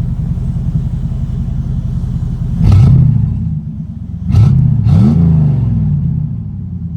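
1992 Camaro RS's 305 TBI small-block V8, its exhaust open right after the catalytic converter, idling and then blipped three times, once about two and a half seconds in and twice more in quick succession around four and a half to five seconds, before dropping back to a loud idle. Heard from inside the cabin.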